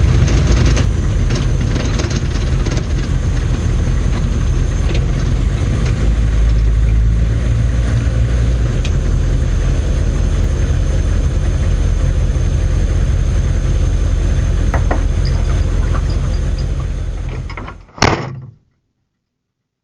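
M998 Humvee's 6.2-litre diesel V8 running steadily at low speed, heard from inside the cab. Near the end the sound fades out, a single sharp knock follows, and then it goes quiet.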